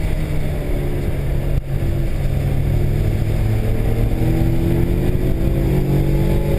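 Honda S2000's four-cylinder engine running under load, heard inside the cabin over tyre and road noise, its pitch rising a little in the second half. A brief knock comes about one and a half seconds in.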